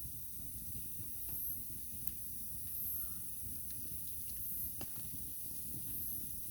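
Wood campfire burning: a steady low rush of flames with a few sharp crackles and pops from the burning wood, over a constant high hiss.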